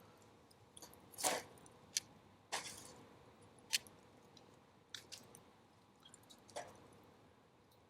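Wood fire crackling: a handful of sharp, irregularly spaced pops and snaps over a faint steady hiss.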